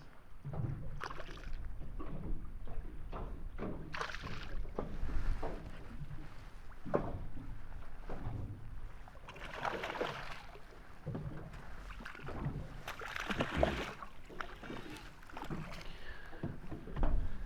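Water slapping and lapping against the hull of a small boat, with scattered knocks and bumps aboard and a couple of louder rushes of water or wind about ten and thirteen seconds in.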